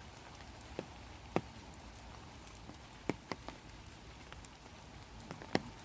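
Light rain: individual raindrops landing close by as sharp, irregular ticks over a steady soft hiss.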